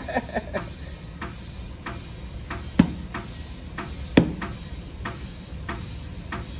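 A series of light clicks and taps at uneven intervals over a low hum, with two sharper knocks about three and four seconds in.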